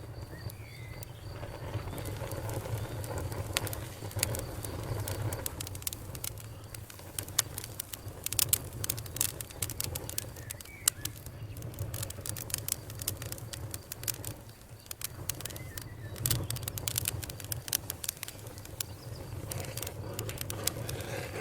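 Campfire crackling, with irregular sharp pops and snaps over a steady low rumble; the pops get denser after the first few seconds.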